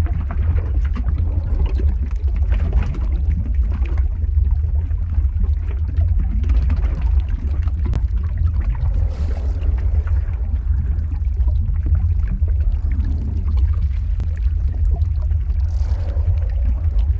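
Lava flow ambience sound effect: a steady deep rumble with bubbling, gurgling and small crackles over it.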